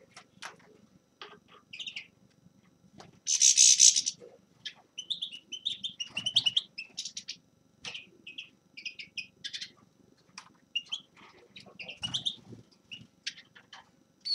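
A finch singing a rapid twittering song of short chirps and trills, with one loud harsh, hissing note lasting about a second, about three seconds in.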